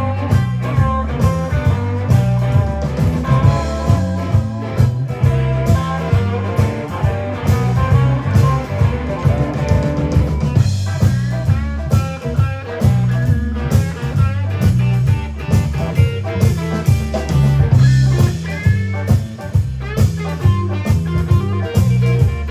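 Live blues band playing an instrumental passage: guitar over a steady, pulsing bass and drums.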